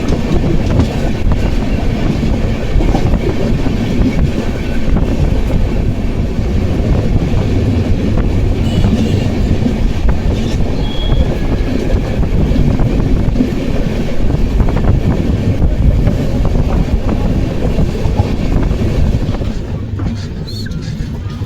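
Amrit Bharat Express passenger train running on the track: a steady, loud rumble of wheels and coaches with clickety-clack, easing slightly near the end.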